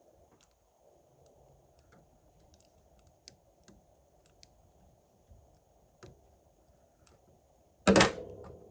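Faint, scattered little clicks and scrapes of small hand tools working on iPhone battery parts, with one loud sharp knock about eight seconds in.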